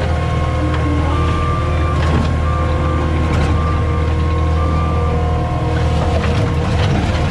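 CAT 259D skid steer's diesel engine running steadily under load, with a steady hydraulic whine over the low engine hum and a few short knocks.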